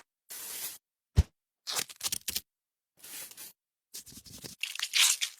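A series of short scraping, rasping noises, each cut off abruptly, with a sharp knock a little after a second in.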